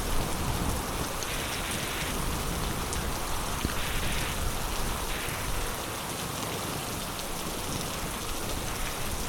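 Heavy rain falling steadily, an even hiss with scattered drop ticks from rain hitting surfaces.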